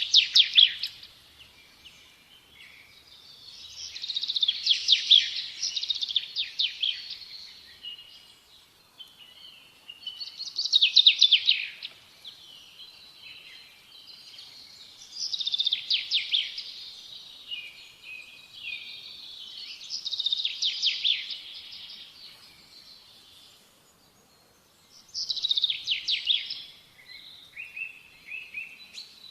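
A songbird singing: six loud phrases of rapid, falling notes, one about every five seconds, with quieter twittering between them.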